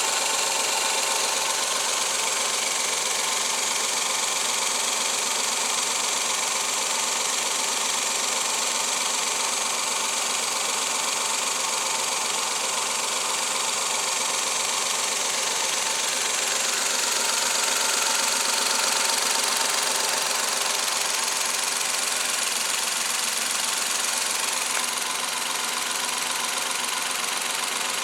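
Suzuki K6A 660 cc three-cylinder engine running steadily.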